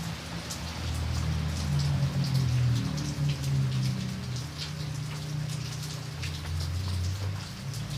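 Steady rain falling on a surface, with single drops ticking here and there over a continuous low rumble.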